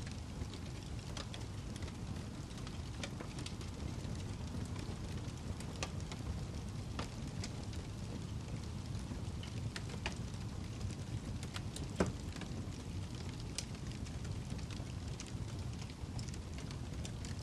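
Wood log burning in a fireplace: a steady low rumble of flame with irregular sharp crackles and pops, one louder pop about twelve seconds in.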